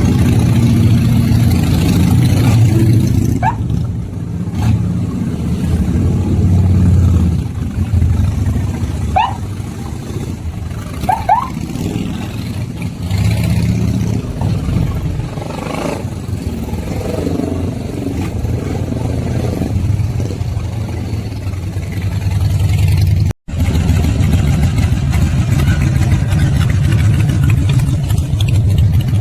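Motorcycle engines running while being warmed up, idling with the revs swelling and easing back several times. About 23 seconds in the sound cuts out for a split second.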